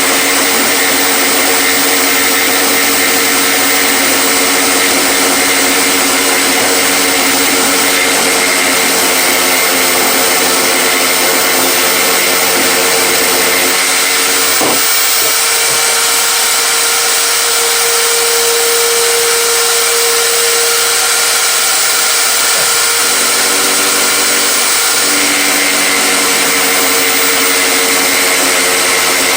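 Electric power tool motor running steadily under load, with a sharp click about 15 seconds in after which its tone shifts.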